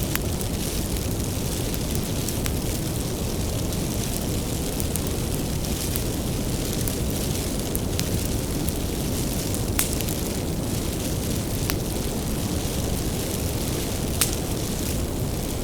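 Wood fire burning with a steady low rumble, broken by a few sharp crackles and pops.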